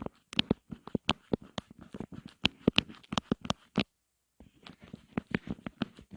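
ASMR tapping: quick, irregular taps and clicks, several a second, with a brief pause about four seconds in.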